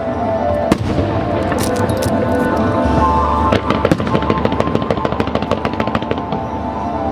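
Show music playing throughout, with fireworks crackling and popping over it in many sharp cracks, thickest in the first half.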